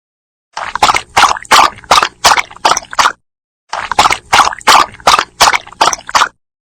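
A dog lapping water with its tongue, in quick wet laps about three a second. There are two runs of laps with a brief pause between them.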